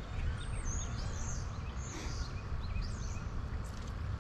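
Birds chirping: many short high calls, several sliding downward in pitch, over a steady low rumble.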